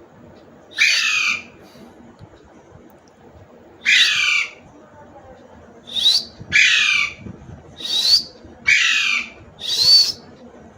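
Parrot squawking: seven harsh calls, one about a second in, one near four seconds, then five in a row about a second apart.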